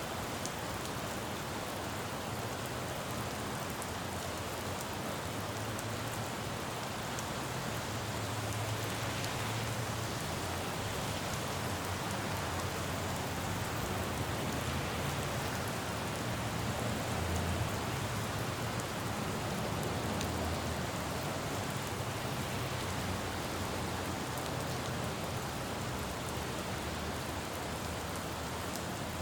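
Steady rain falling on a city road, with a low traffic rumble underneath that swells and fades, louder through the middle.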